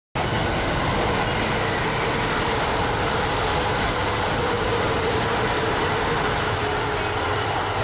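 Electric train running by with a loud, steady rush of wheel and rail noise and a faint steady whine underneath.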